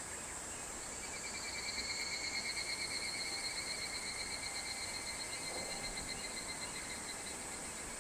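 Higurashi (evening cicada) calling: a pulsing trill that starts about a second in, swells, then slowly fades out near the end. Behind it runs a steady high hiss of other insects.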